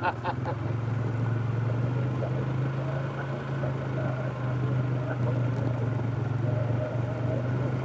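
Fuel-injected Polaris ATV engine running at a steady, even pitch while riding along a trail.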